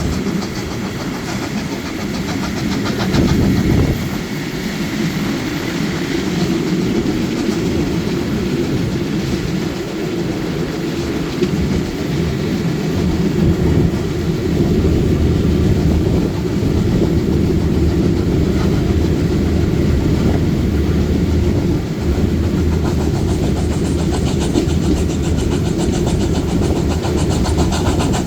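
Historic train running along the line: a steady low rumble of wheels and running gear with an engine hum, growing a little stronger in the second half.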